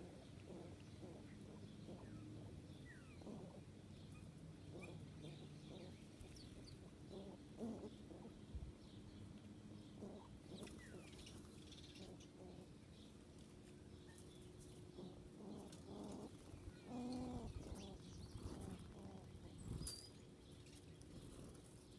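Faint wild birdsong: scattered short chirps, with a lower, fuller call about three-quarters of the way through.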